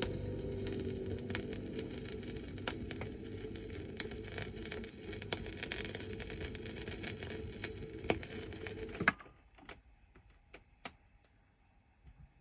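Vinyl 45 rpm record playing past the end of the song: steady surface noise and low rumble with crackles and clicks, typical of the groove after the music. About nine seconds in there is one sharp, loud click and the noise cuts off, leaving only a few faint ticks.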